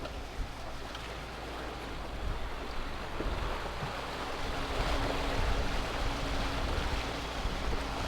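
Small boat on open sea: water washing and wind buffeting the microphone, with a steady hum, likely the boat's engine, coming in about halfway through.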